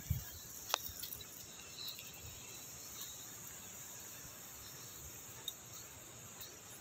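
Faint, steady high-pitched hiss of outdoor background noise, with a few light clicks.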